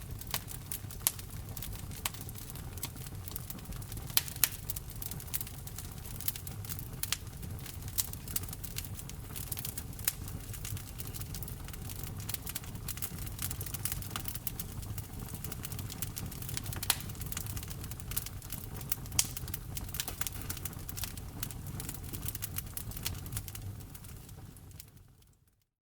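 Wood fire in a fireplace crackling and popping, with a steady low rumble of the flames under many sharp snaps. The sound fades out to silence just before the end.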